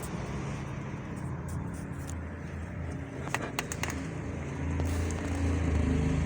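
Low, steady hum of a running car engine that grows louder near the end, with a few sharp clicks about three and a half seconds in.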